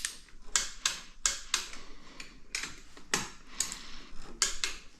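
Ratchet of a torque wrench clicking as bolts on a Honda TRX400EX engine are run down toward 15 ft-lb in a crisscross pattern: about a dozen sharp, uneven clicks, two or three a second.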